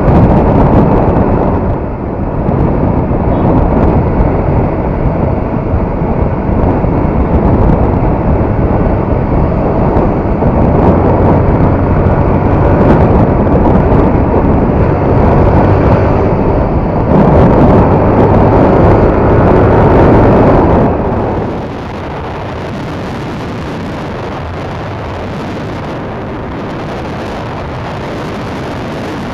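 Yamaha R15 single-cylinder motorcycle under way, its engine running under heavy wind rush on the microphone. About twenty seconds in, the sound drops suddenly to a steadier, quieter hum.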